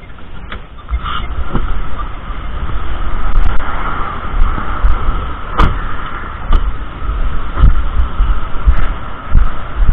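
A car on the move: steady road and engine rumble with a dozen or so scattered knocks and bumps.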